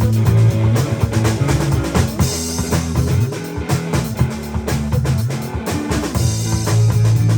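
A band playing: drum kit beat with guitar over a moving bass line, a cymbal crash about two seconds in.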